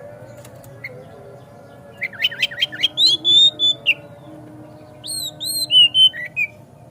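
Oriental magpie-robin (kacer) singing. About two seconds in comes a quick run of rising notes, then a short whistled phrase, and near the end a few arched whistles dropping into lower notes.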